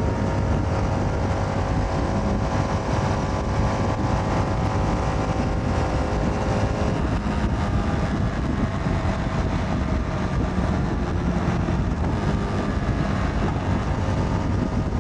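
Motorcycle riding at a steady cruise, recorded from the rider: a steady engine note under heavy wind buffeting on the microphone.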